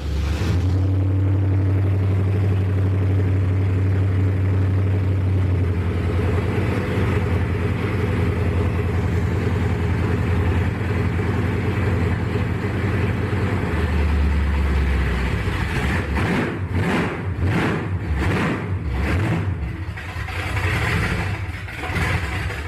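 Carbureted truck engine idling steadily with its ignition timing being set at the distributor, then blipped with the throttle several times near the end.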